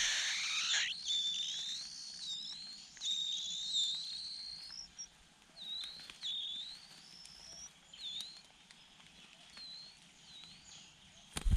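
Small birds chirping: a run of high, thin, sliding chirps and whistled notes, busy for the first few seconds and then coming in ones and twos. A sharp knock sounds near the end.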